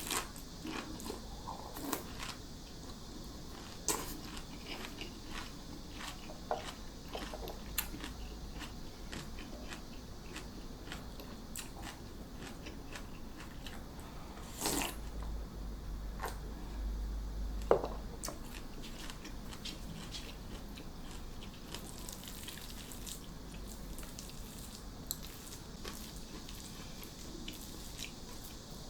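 Close-up eating sounds: crunching bites and chewing, with scattered sharp clicks and taps, the loudest just before the middle and a little after it.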